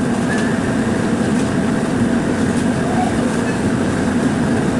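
Steady running noise of a vehicle in motion, heard from inside, with a constant low hum underneath.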